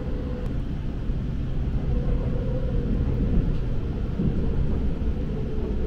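Cabin noise inside a Seibu New Red Arrow limited express train running at speed: a steady rumble of wheels on rail with a faint held tone over it.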